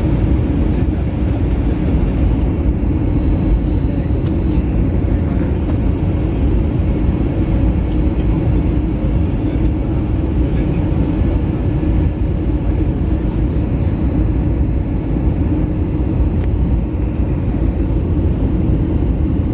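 Steady cabin noise inside an Airbus A321neo airliner in flight: an even, loud low roar of the engines and airflow, with a constant hum in it.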